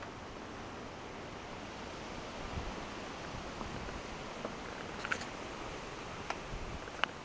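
Soft rustling of leather clothing over a steady hiss, with a few small sharp clicks in the second half.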